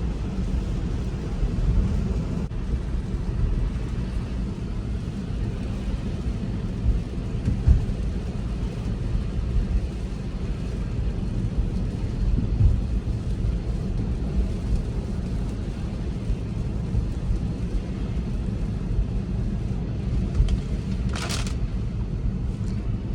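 Steady low rumble of tyres and road inside a Tesla Model 3 cabin as it drives on a wet, snowy road, with no engine sound from the electric drive. A brief, sharper, higher sound comes near the end.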